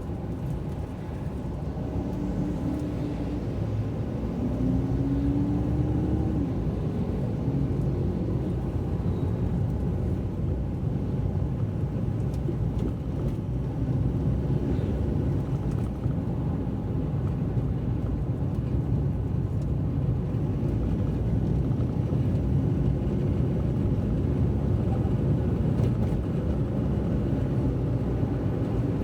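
A car driving, heard from inside the cabin: a steady low rumble of engine and tyre noise, with the engine note rising briefly a few seconds in.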